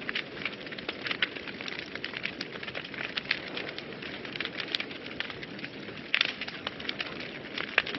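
Fire burning in a fireplace, crackling steadily under a soft hiss with frequent small pops, and a quick cluster of louder pops about six seconds in.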